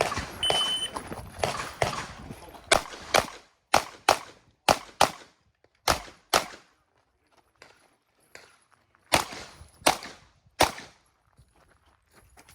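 A shot timer's start beep, then a 9mm pistol fired in quick pairs (double taps), about a dozen shots in groups with short pauses between them, as a competition stage is shot.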